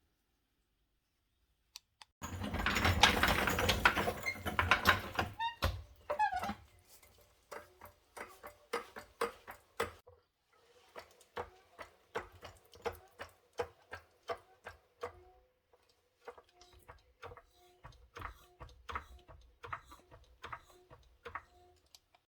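Mechanic's tools working on a car's rear shock absorber mounts: a dense burst of noise lasting about three seconds, then a long run of sharp metallic clicks, a few a second.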